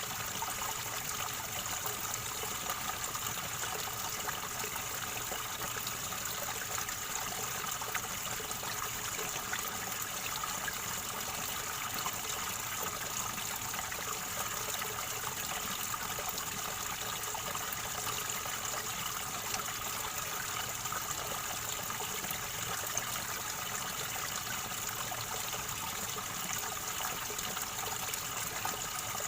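River water gurgling and trickling in a steady, unbroken rush.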